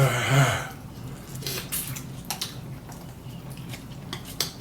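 Close-up eating sounds of someone eating instant noodles: chewing and wet mouth sounds, with a few short sharp clicks scattered through.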